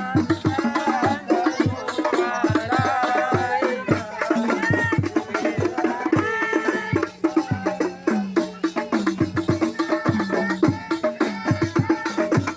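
Sholawat, Islamic devotional song, sung over a fast, steady drum and percussion beat.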